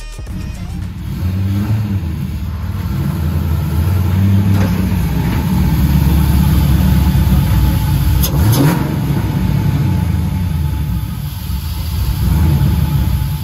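2004 Pontiac GTO's 5.7-litre V8 running at low speed with a few light throttle blips, the pitch climbing in a short rev about eight and a half seconds in.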